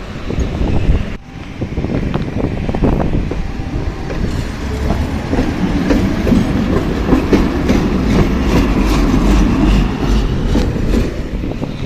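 Tram running on rails, a steady low rumble with the wheels clattering over track joints and points.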